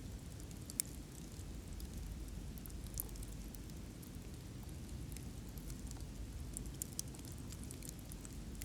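Wood fire crackling: irregular sharp pops and snaps, a louder one just under a second in and others near three and seven seconds, over a low steady rumble of burning.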